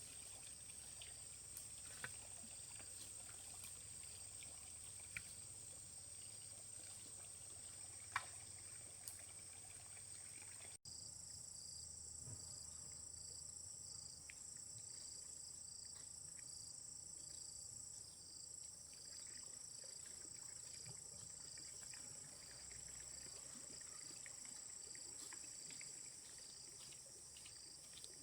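Insects chirring steadily, a faint high-pitched drone. About a third of the way in it changes to a pulsing insect call over the drone, with a few faint ticks.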